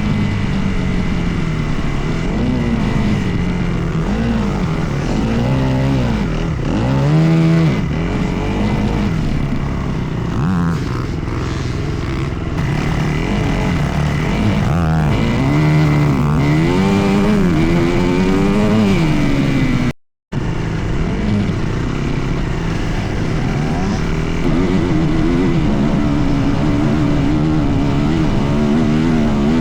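Dirt bike engine running hard, its pitch rising and falling over and over as the throttle is opened and closed. The sound cuts out for a moment about two-thirds of the way through.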